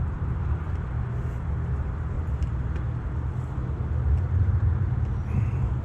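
Harley-Davidson V-twin motorcycle engine running, a steady low engine sound at an even level.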